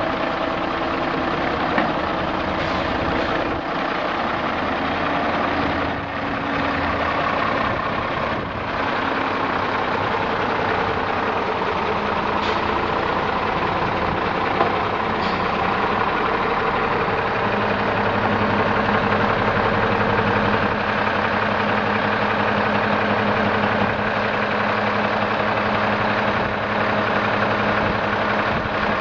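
1995 Peterbilt roll-off truck's diesel engine running steadily at idle. A steadier low hum settles in from about halfway through.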